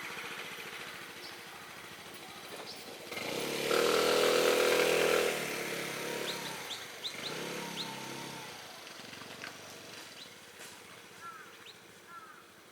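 Motorcycle engine revving up for about two seconds, then easing off and fading away, with a smaller swell a few seconds later. Birds chirp in the background near the end.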